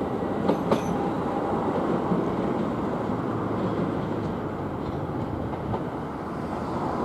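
Southern Class 377 electric multiple-unit train running along the tracks, with a few sharp wheel clicks over rail joints in the first second, then a steady rumble that eases slightly towards the end.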